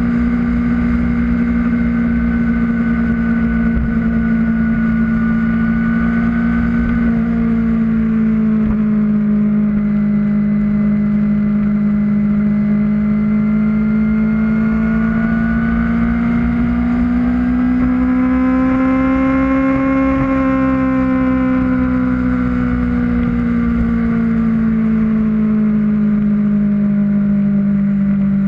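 Kawasaki Ninja ZX-6R inline-four engine running at steady high revs under the rider, its note dipping slightly about eight seconds in, then climbing slowly to a peak about twenty seconds in before easing back down.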